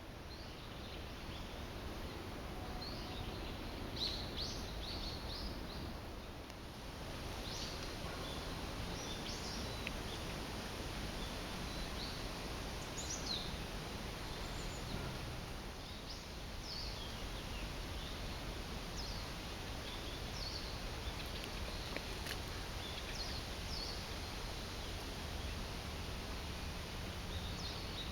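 Outdoor nature ambience: a steady background hiss with birds giving short, scattered chirps throughout, fading in at the start.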